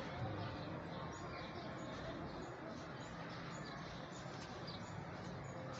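Pair of masked (black-masked) lovebirds giving faint, scattered short chirps and squeaks over a steady background hiss.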